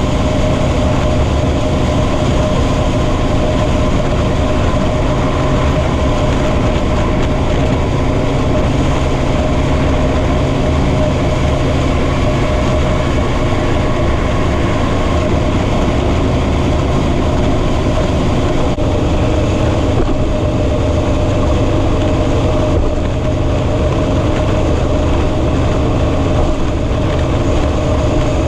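Motorcycle cruising at a steady highway speed: a constant engine drone holding one pitch, with wind and road noise.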